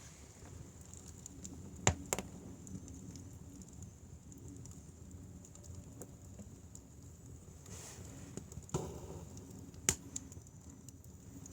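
Firewood fire burning with a low, steady hiss and occasional sharp pops and crackles, the loudest pair about two seconds in and another near ten seconds.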